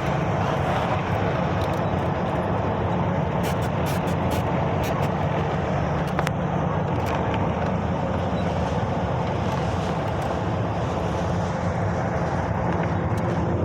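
Truck on the road: its engine drones steadily under tyre and road noise, with a few light ticks and rattles scattered through.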